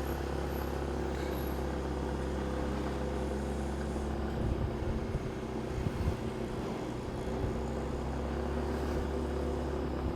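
Motorcycle engine running steadily with road and traffic noise, heard from the seat of the moving motorbike. A few low bumps about halfway through.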